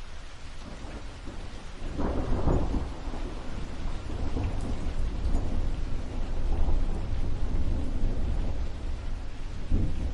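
Thunder rolling over steady rain: a deep rumble swells about two seconds in and rumbles on, with a sharper clap near the end.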